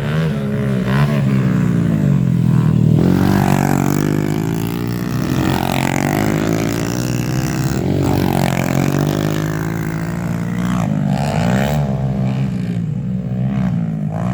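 Small single-cylinder four-stroke pit bike engine at full throttle on a dirt track, its pitch climbing and dropping again and again as the rider throttles on and off and shifts.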